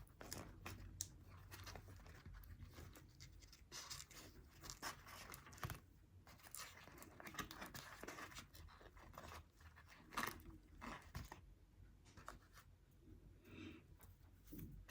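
Faint, scattered rustling and small taps of paper and card being handled as craft pieces are stuck onto a model, with a slightly louder rustle about ten seconds in.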